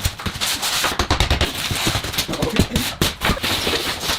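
A quick, irregular run of sharp knocks, several a second: fastening work on wooden boards, as when battens are nailed over ceiling insulation panels.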